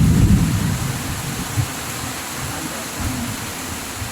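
Heavy rain of a summer storm falling steadily as an even hiss, with a low rumble in the first second.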